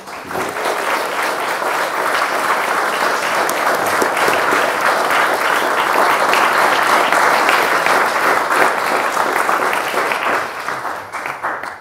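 Audience applauding, a dense clapping of many hands that starts suddenly and dies away near the end.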